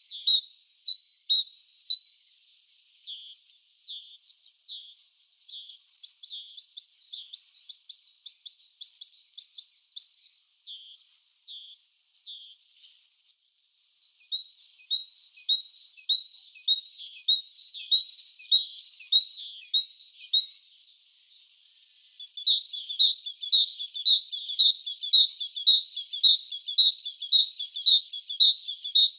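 Small songbirds singing: bouts of high, rapidly repeated chirping notes, about two to three a second, with short pauses between the bouts.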